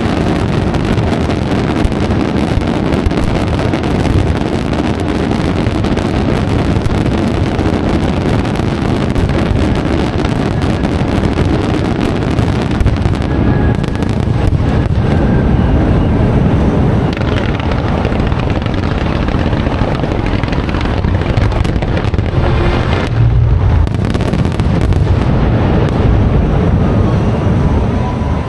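Fireworks barrage: dense, continuous booms and crackling with no break.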